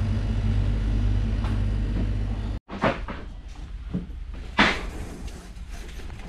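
A steady low rumble that cuts off abruptly, then a few separate knocks and clunks, the loudest about four and a half seconds in.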